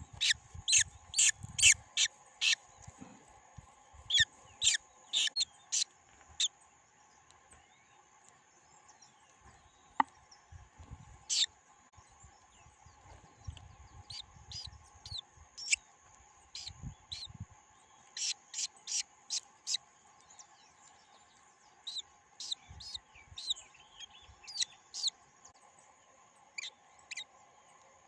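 Bird chirping: short, sharp high chirps in quick runs of three to six, with pauses of a few seconds between runs.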